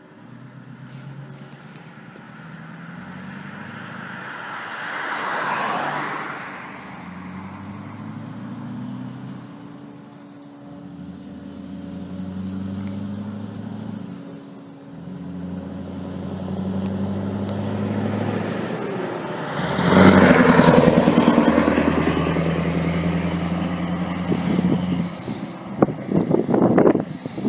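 Scania R500 V8 truck's diesel engine pulling through several gear changes, its pitch climbing and dropping each time; about 20 s in it becomes sharply louder, as when the truck passes close, then fades away.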